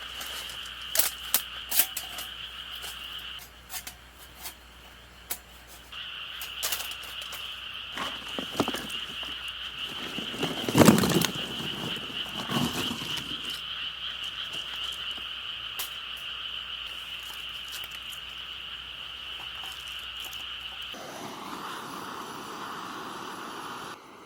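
A steady, high-pitched chorus of calling animals, with scattered clicks and a loud knock about eleven seconds in. The chorus drops out for a couple of seconds about four seconds in, then returns. Near the end it gives way to a duller rushing noise.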